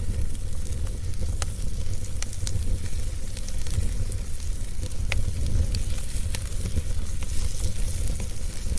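Wood fire crackling: irregular sharp pops and snaps over a steady low rumble and a high hiss.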